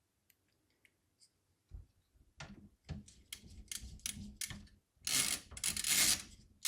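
Irregular small clicks and knocks of hardware being handled and fitted into a PC case, with a scraping rustle about five seconds in.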